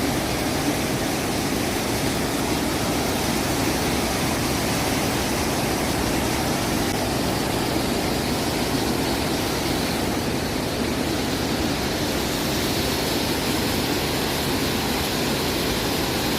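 Kakabeka Falls, a waterfall with a 47-metre drop on the Kaministiquia River, making a steady, even rush of falling water.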